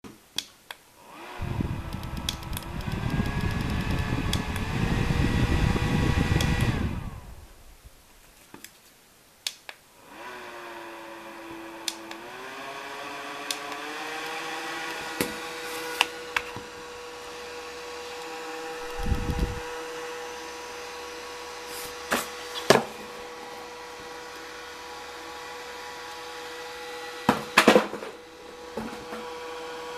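Xiaomi cordless fan's motor starting and whining up in steps through its speed settings, with a loud rush of air, then switched off about seven seconds in. It starts again about ten seconds in, steps up to its top speed and runs steadily, with scattered clicks throughout.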